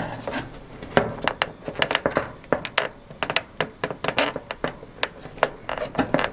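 Irregular clicks, taps and knocks of hand tools and plastic door-trim parts being handled and worked on a truck door, several a second.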